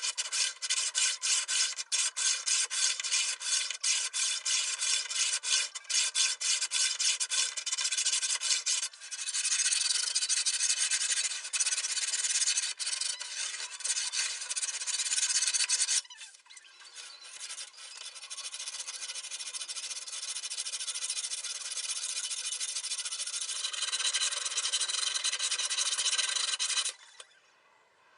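Steel sword blade being filed or ground: a harsh rasping scrape, in quick repeated strokes at first, then continuous, stopping abruptly near the end.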